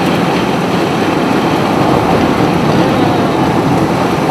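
Steady road and engine noise heard from inside a moving chase vehicle.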